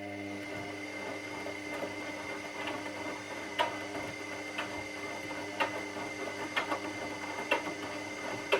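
Washing machine motor turning the drum, a steady hum with a thin high whine. From about three seconds in there is a knock roughly once a second.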